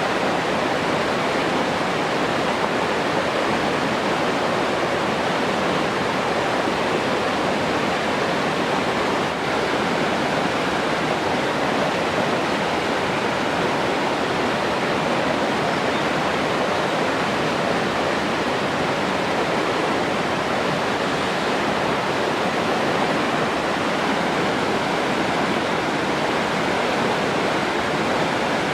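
Steady rush of falling or running water, an even hiss with no breaks.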